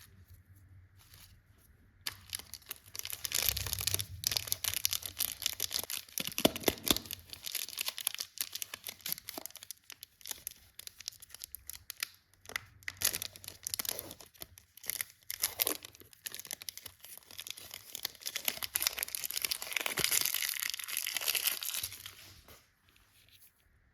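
Candy packaging being torn open and crinkled by hand: a dense run of crackling and rustling that starts about two seconds in and stops shortly before the end.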